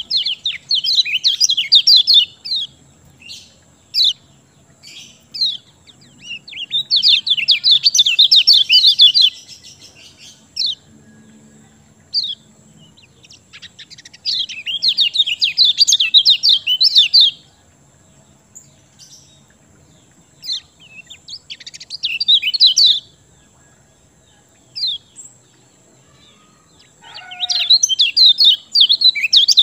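A kecial kuning, a white-eye, singing loudly in repeated bursts of fast, high twittering. Each burst lasts about two to three seconds, and there are five in all, with single short chips between them. This is the full, eager song that keepers play as a lure to set quiet birds singing.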